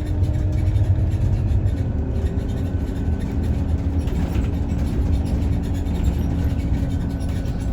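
Scania OmniLink city bus running, heard from inside the passenger cabin: a steady low rumble of engine and road noise, with a faint whine whose pitch shifts a little.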